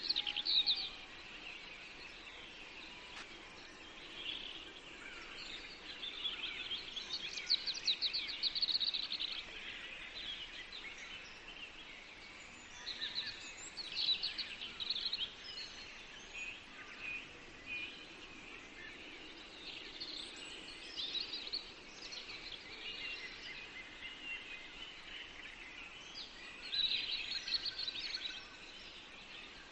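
Several songbirds singing in a forest, a mix of chirps and rapid trills, with livelier bursts now and then over a faint steady background hiss.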